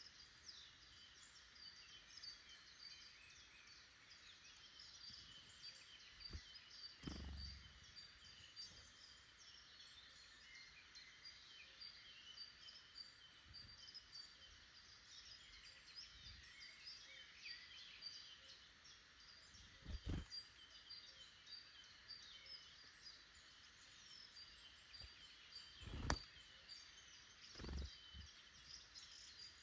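Faint woodland birdsong: many small birds chirping and calling over one another. A few soft thumps break in, the loudest one near the end.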